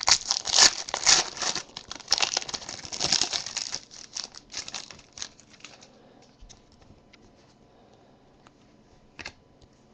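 Foil wrapper of a Panini Select football card pack being torn open and crinkled, loud and dense for the first several seconds. It then dies down to a few faint clicks of cards being handled.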